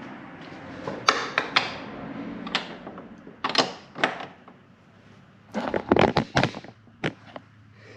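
Irregular clicks and knocks of hand tools and metal hardware being worked while the nuts go onto the bracket bolts, with a tight cluster of sharp knocks about six seconds in.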